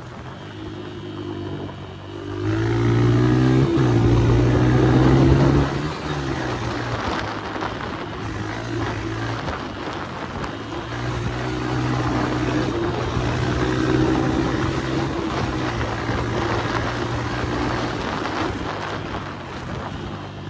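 Small dirt bike's single-cylinder engine being ridden: about two seconds in it revs up hard and its pitch rises and falls for a few seconds, then it settles into a steadier cruising note that rises and dips a little with the throttle.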